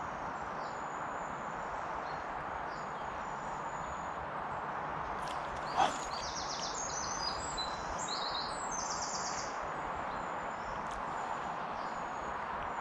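A songbird sings a quick run of high, rapidly repeated notes for a few seconds around the middle, over a steady rushing outdoor noise. A single sharp click comes just before the song.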